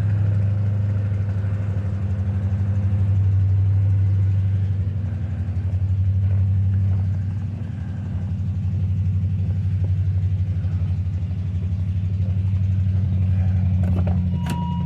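OBS Ford F-150 engine idling steadily just after a cold start in sub-zero cold. The loudness swells and fades slowly, and a couple of sharp clicks come near the end.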